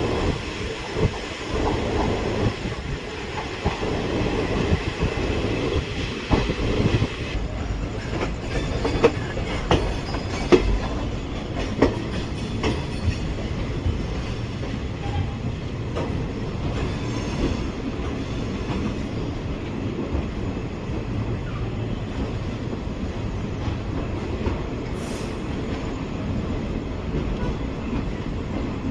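Indian Railways passenger express train in motion: a steady rumble of the coaches with sharp wheel clacks over rail joints, most frequent in the first half.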